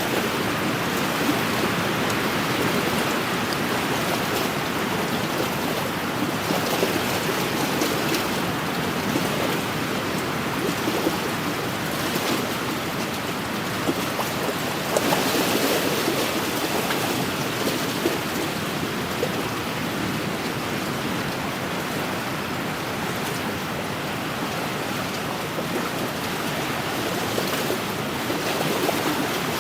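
Wind-driven waves washing on a lakeshore, with wind: a steady rush of water that swells a little about halfway through.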